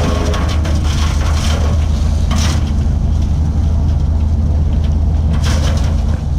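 Heavy diesel engine of an excavator running steadily at work, a loud low drone, with two brief harsher noises about two and a half and five and a half seconds in.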